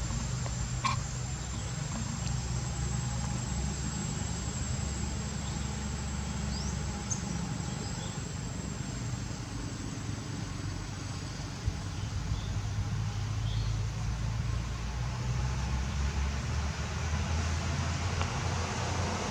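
Outdoor ambience: a steady high-pitched insect drone over a continuous low rumble. The drone fades out about halfway through.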